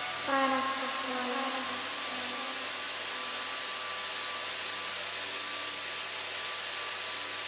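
Random orbital (eccentric) sander with a 120-grit disc running steadily, stripping paint down to bare plastic, with a thin high whine over its even hiss. Background music fades out in the first couple of seconds.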